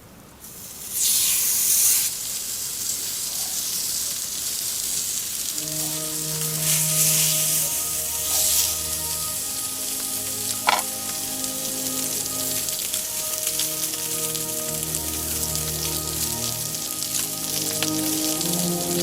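Steak sizzling on a hot frying pan, starting with a loud burst about a second in and then frying steadily. Background music with held notes comes in at about six seconds.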